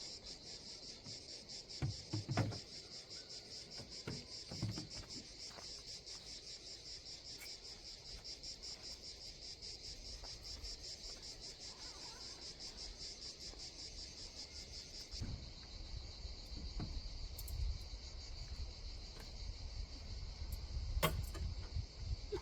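A steady, pulsing chorus of insects chirring in summer woodland. A few soft knocks sound early on, and in the second half a low rumble rises beneath the insects, with a sharp click near the end.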